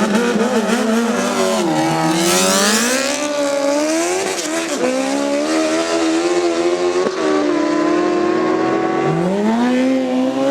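High-revving drag-racing engine being revved up and down, its pitch falling and then climbing several times, with a steady stretch in the middle.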